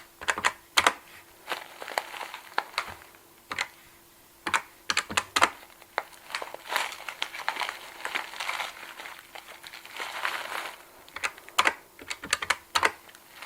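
Cash register keys being pressed: irregular sharp clicks, some in quick runs, with a softer rustling between them in the middle.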